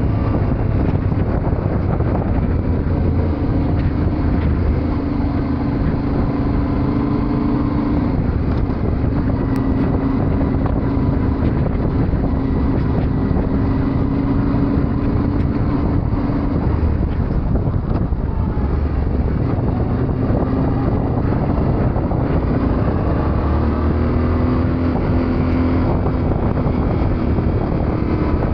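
Yamaha Ténéré 700's parallel-twin engine running while riding, its pitch shifting up and down several times with the throttle, over a steady rush of wind and road noise.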